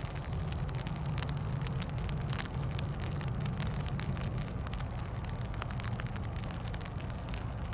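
Light rain ticking irregularly on a surface close to the microphone, over a steady low rumble.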